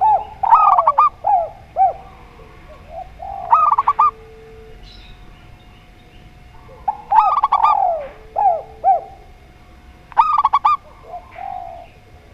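Zebra dove (perkutut) and spotted dove (tekukur) cooing. About four phrases of quick, repeated cooing notes recur every few seconds, with long lower notes between them.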